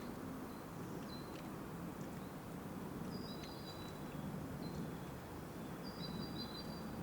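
Steady low outdoor background noise with faint, short, high bird chirps scattered through it: one about a second in, a few around three to four seconds, and a cluster near the end.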